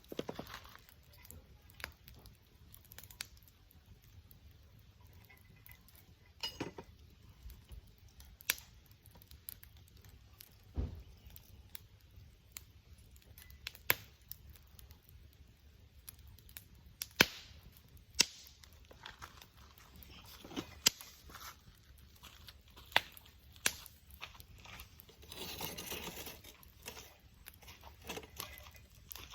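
Wood fire crackling: sharp, irregular pops and snaps from burning wood, a few every couple of seconds, with a denser patch of crackle and hiss about 26 seconds in.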